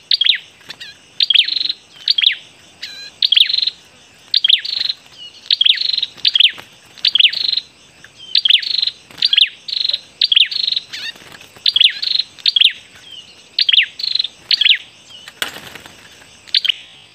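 A small songbird calling: loud, sharp chirps, each a quick downward sweep, repeated about twice a second and often in pairs, stopping a couple of seconds before the end. A short rustling noise follows near the end.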